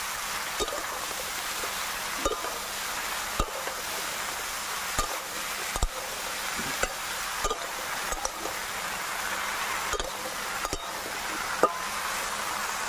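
Chopped elephant-foot yam stems and shrimp sizzling in oil in an aluminium kadai, with a steady hiss throughout. A spatula stirs the pieces, knocking and scraping against the pan about a dozen times at irregular intervals.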